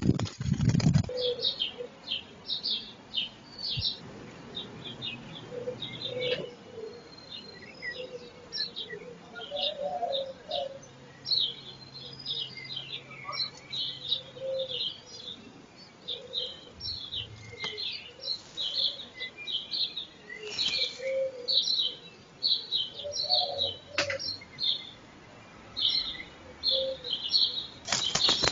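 Small birds chirping: a busy run of short, high-pitched chirps, several a second, with softer lower notes now and then.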